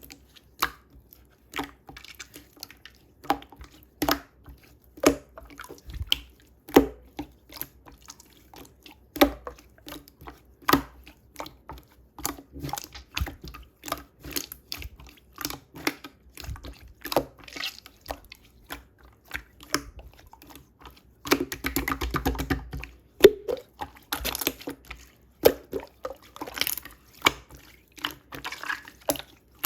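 Wet, irregular clicks, squelches and drips of cherry juice, with a denser run of liquid sound about two-thirds of the way through.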